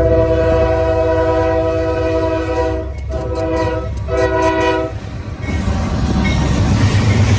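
Locomotive air horn sounding a chord: one long blast of about three seconds, then two short ones. After that comes the loud rumble and clatter of the train passing.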